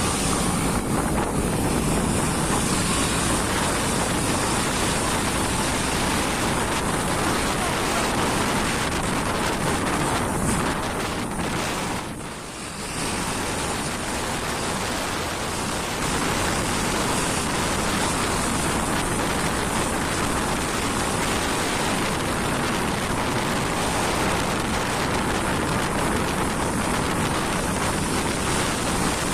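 Truck on the move over a wet road: a steady rush of road, tyre and wind noise with no clear engine note. It dips briefly about twelve seconds in.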